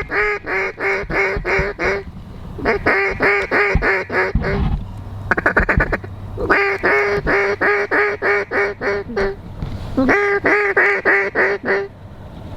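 Mallard duck call blown in steady runs of quacks, about five a second, in four series with a quick feed chatter between the second and third. The hunters are calling to ducks that are circling the decoys.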